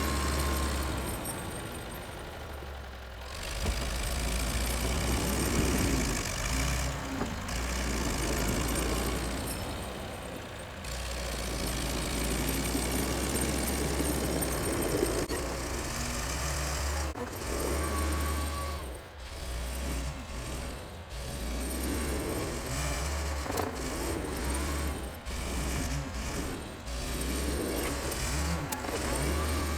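Engine of a 64-year-old Volvo tractor running steadily under load while plowing snow, its loudness rising and falling, with short knocks and clatter in the second half.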